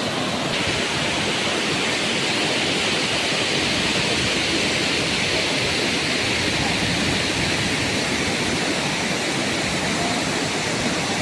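Waterfall rushing steadily, a continuous roar of falling water that grows brighter and hissier about half a second in.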